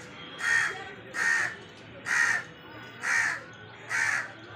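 A crow cawing: five harsh caws about one a second.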